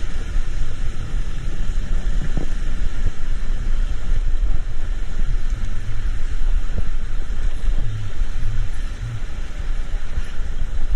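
Steady low rumble of a road vehicle on the move, with a few short knocks.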